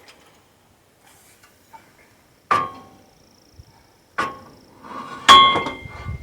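Three sharp metal knocks on steel parts of a sawmill, each ringing briefly. The third is the loudest, with a clear ringing tone.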